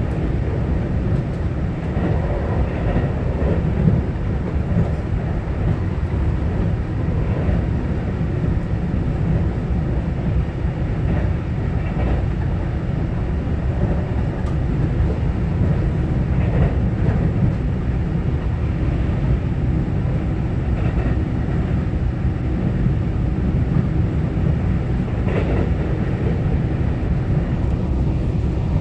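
Taiwan Railway EMU900-series electric multiple unit running between stations, heard from inside the carriage: a steady low rumble of wheels on rail, with a faint knock now and then.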